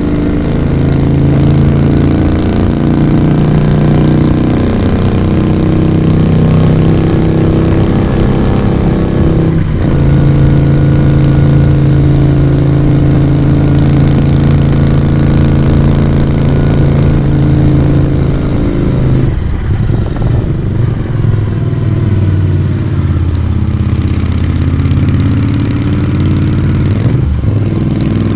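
Moto Guzzi V35 café racer's V-twin engine and exhaust running on the move. The note drops briefly about a third of the way in and again near the end, and eases off for a few seconds past the middle before picking up again.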